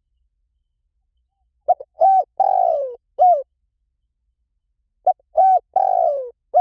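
Spotted dove cooing: two phrases, starting about two seconds in and again near the end, each of two short coos, a longer falling coo and a short coo.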